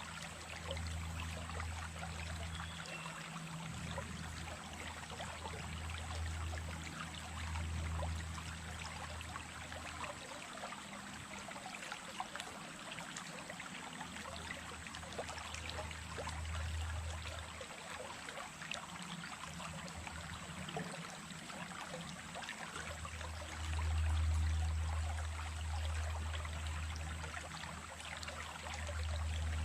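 Small stream running and trickling steadily, with a low rumble underneath that swells and fades, loudest near the end.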